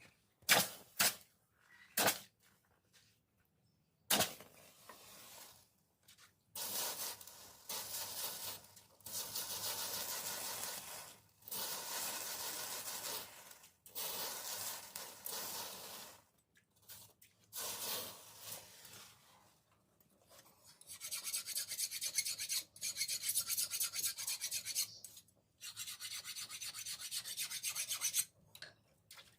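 A few sharp knocks, then a hand file rasping over the steel of a dao blade made from a car leaf spring. The file moves first in long strokes of a few seconds each, then in quick short strokes from about two-thirds of the way in.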